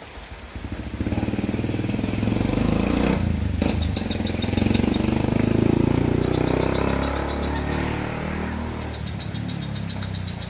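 A motor vehicle passes by, its engine sound building over the first few seconds, loudest around the middle, then fading away.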